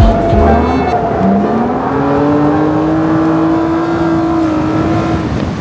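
Drift car's engine climbing in revs about a second in and holding high revs steadily for several seconds, then backing off near the end.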